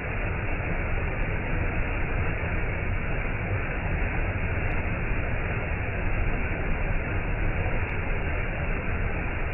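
Waterfall: a steady, unbroken rush of falling water, deepest and heaviest in the low end.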